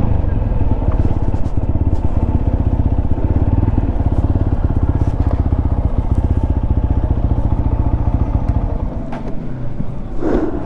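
Single-cylinder motorcycle engine, the Bajaj Pulsar RS 200, running steadily at low revs with an even beat of firing pulses. The engine note eases off near the end, and a brief higher sound comes just before the end.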